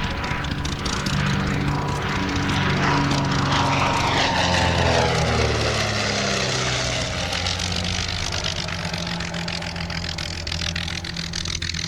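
Aircraft flypast: a propeller engine drone with a whine that falls in pitch as the aircraft pass, loudest about four to five seconds in. The likely source is the F-86 Sabre jet flying in formation with the twin piston-engined DH.88 Comet.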